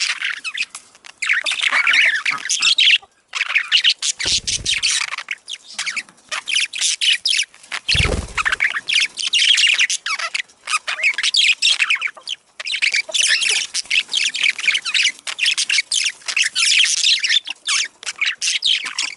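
Budgerigars chattering and warbling non-stop in rapid, squawky chirps, the budgie chatter played to stimulate breeding. Two brief low thumps come about four and eight seconds in.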